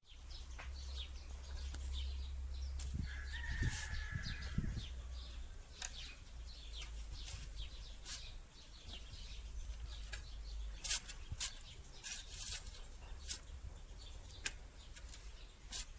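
Birds calling outdoors in many short chirps and clucks, with one longer held call about three seconds in. A low wind rumble on the microphone runs through the first four seconds or so.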